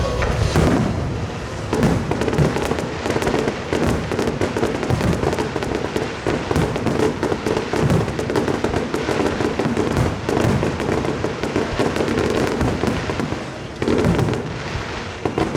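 Fireworks barrage: a dense, continuous stream of bangs and crackling shells, with a short lull near the end before the bangs resume.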